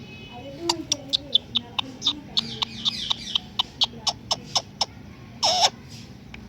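Pet parrot making a run of sharp clicks, about four a second, followed by a short harsh squawk with a falling pitch near the end.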